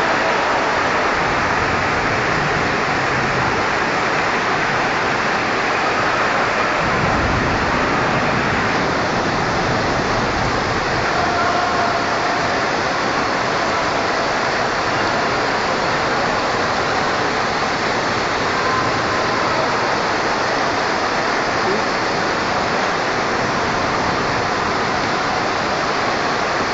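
Very heavy rain pouring down, a dense, steady hiss of downpour.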